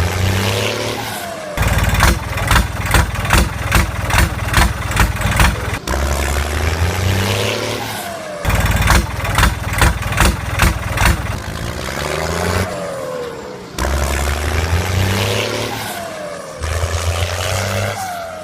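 Engine sound effect of a truck, looping every few seconds. Each loop has stretches of revving with short falling whines, then runs of quick, sharp throbs about two to three a second.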